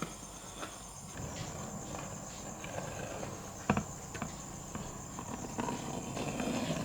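A steady high insect trill, with scattered light taps and knocks and one sharper knock a little past halfway.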